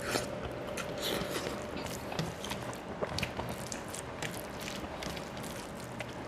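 A person chewing a mouthful of rice and okra, with many small irregular wet clicks and smacks of the mouth, and fingers mixing rice on a steel plate. A faint steady hum lies underneath.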